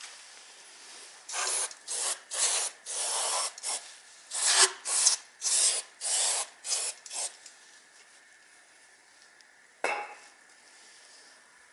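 Rough scraping: about a dozen quick strokes of a hand tool rubbing over a hard surface, then a single sharp knock near the end.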